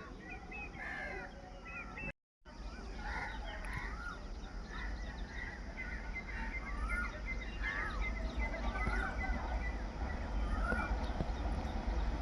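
Birds chirping repeatedly in short calls over a low rumble that grows louder toward the end. The sound cuts out completely for a moment about two seconds in.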